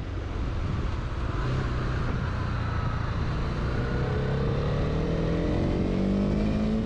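Honda CB300R's single-cylinder engine accelerating under way, its pitch climbing steadily through the second half.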